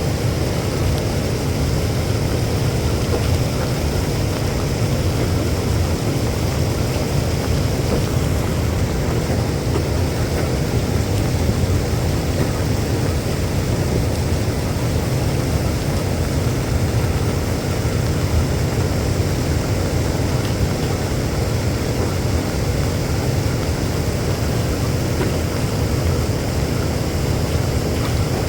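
Steady storm noise of strong wind and heavy rain: a constant low rumble with a hiss over it.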